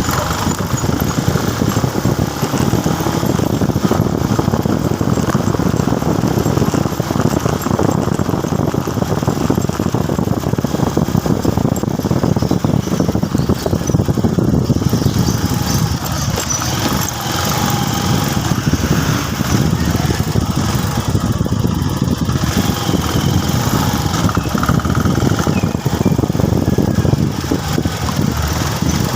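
Motorcycle on the move: engine and rushing wind and road noise on the rider's camera microphone, a steady loud rumble with no breaks.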